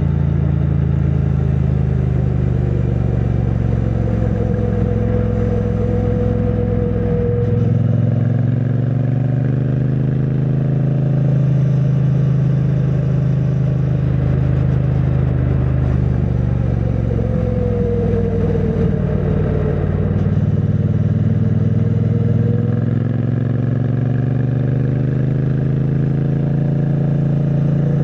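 2022 Triumph Bonneville T100's 900 cc parallel-twin engine running through its stock exhaust while riding, heard muffled from a microphone in the rider's backpack. The engine note shifts in pitch twice, about 8 seconds in and again about 20 seconds in.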